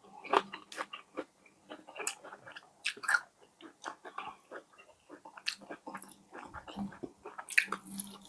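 Close-miked chewing and biting into fried chicken: a steady string of irregular crisp crackles and clicks as the coating is bitten and chewed.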